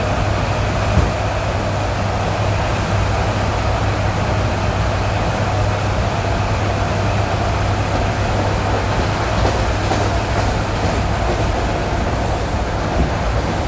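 ED9E electric multiple unit running along the line, heard from inside the carriage: a steady rumble and hum of the wheels and running gear, with an occasional light knock.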